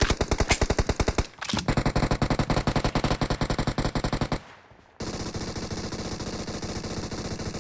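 Video-game automatic gunfire in rapid bursts. There is a burst of about a second, a short break, then about three seconds of fire. After a half-second lull comes a steadier, faster run of fire that stops at the end.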